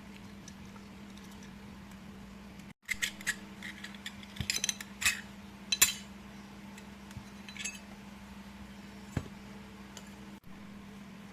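Light clicks and clinks of small hard parts being handled, bunched between about three and six seconds in, with a few more later, over a faint steady hum.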